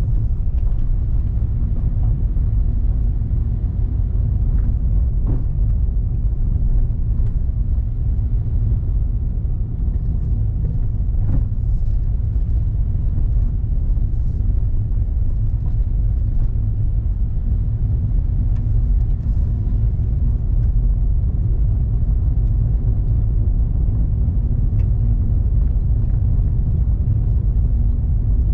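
Steady low rumble of a car being driven along a road, from tyre and engine noise, with a few faint clicks.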